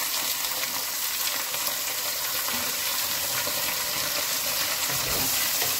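Raw chicken pieces and sliced onions sizzling in hot oil in a cooking pot, a steady frying hiss as the chicken starts to fry with the lightly golden onions.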